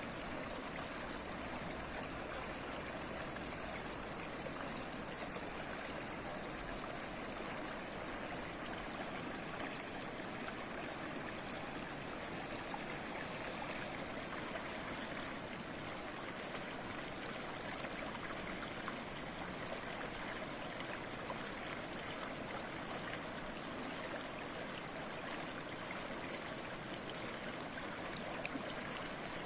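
Babbling stream, water flowing steadily without a break.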